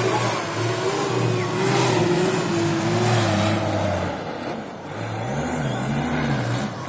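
Tatra Jamal Dakar rally truck's engine running under load as it drives the trial course, then revving up and down several times from about five seconds in.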